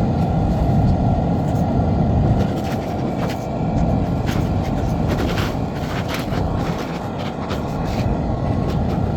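Vehicle running with a steady low rumble, dotted with scattered light clicks and rattles.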